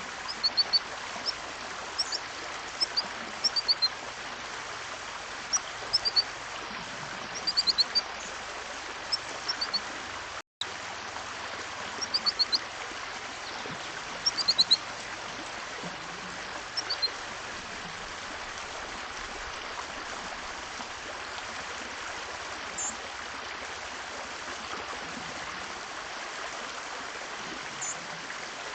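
Small birds at a feeder chirping: short high notes that fall in pitch, in quick groups of two to four, frequent in the first half and only a couple of isolated notes later. Under them runs a steady rushing hiss like running water.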